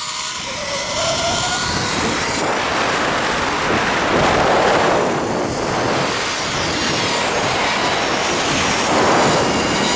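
Zip-line trolley pulleys running fast along a steel cable, a steady whirring rush mixed with wind over the microphone, with a faint whine rising in pitch in the first two seconds as the ride picks up speed.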